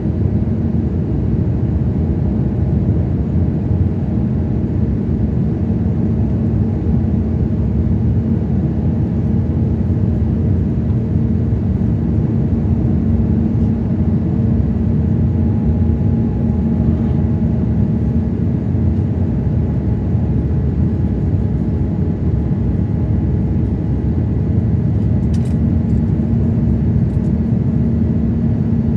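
Airbus A350-900 jet engines running at a steady, loud level: a constant low rumble with a steady hum, holding level without rising or falling.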